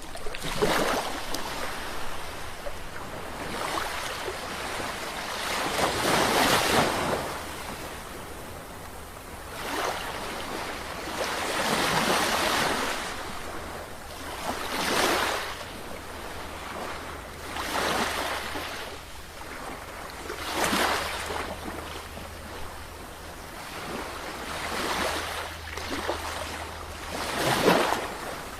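Ocean waves breaking and washing on the shore. The surf swells and falls back about every three seconds.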